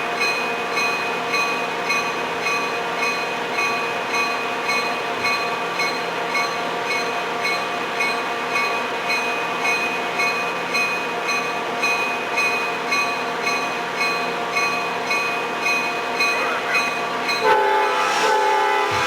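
Railroad bell ringing in steady, even strokes, somewhat under two a second, over the rumble of a train. The locomotive horn sounds near the end, in two short parts.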